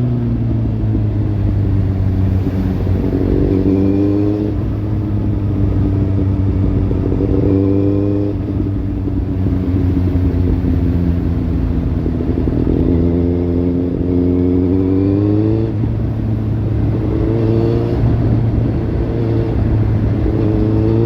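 Kawasaki Z800's inline-four engine running through a Lextek slip-on exhaust, its note rising in pitch and dropping back about four times over a steady low drone.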